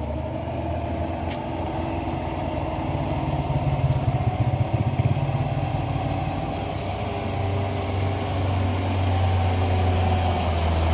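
Heavy truck engine running steadily under load, growing louder towards the end.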